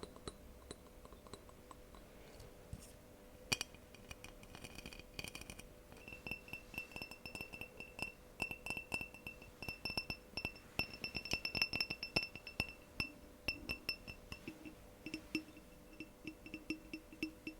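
Fingernails tapping quickly on glass, each tap making the glass ring with a clear high tone; the taps come thick and fast in the middle stretch and thin out toward the end.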